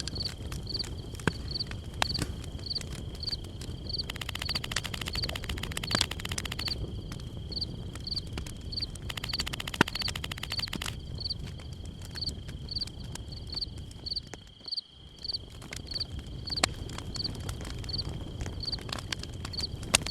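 Outdoor nature ambience: a short high chirp repeating about twice a second over a steady high whine. Two spells of rapid buzzing ticks join in, and there is low rumbling noise with scattered clicks.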